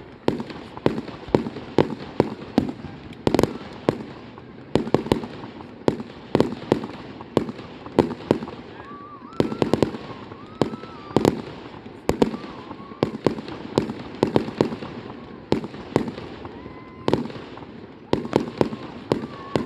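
Fireworks display: a long run of sharp bangs, often one to three a second at irregular spacing, each trailing off briefly.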